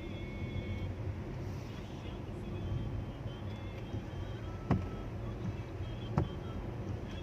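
City street ambience: a steady low rumble of traffic with faint distant voices, and two sharp knocks, one a little under five seconds in and one about six seconds in.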